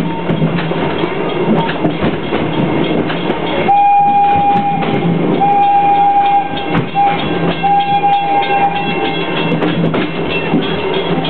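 The Wildlife Express steam train's whistle sounds two long blasts, a short one and a long one, the standard signal for a level crossing. Beneath it the carriages rumble and clatter over the track.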